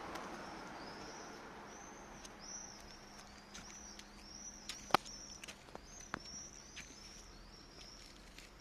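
A bird calling in a long series of short, high-pitched chirps, about two a second, each rising and falling. Two sharp clicks about five and six seconds in, the first the loudest sound, and soft rustling at the start.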